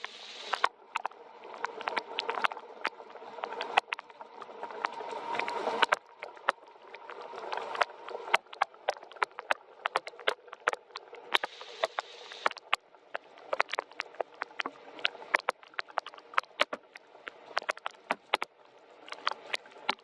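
Rain falling, with many close, sharp drops tapping on a surface over a softer hiss of rain that swells and fades.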